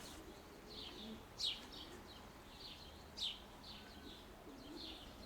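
Small birds chirping in short high calls, two louder falling chirps among them, over faint low cooing of pigeons.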